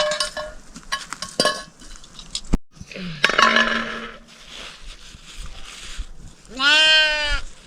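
Metal clinking a few times, with short ringing tones, then near the end a single drawn-out pitched call that rises and falls.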